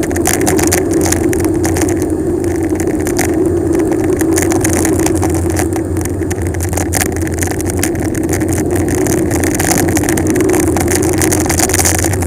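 Steady rush of wind over the microphone and tyre noise from a bicycle descending fast downhill, with many small knocks and rattles from bumps in the road.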